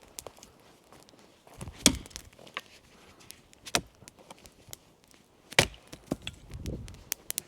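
Wood being chopped: three sharp blows about two seconds apart, with lighter knocks and cracks between them.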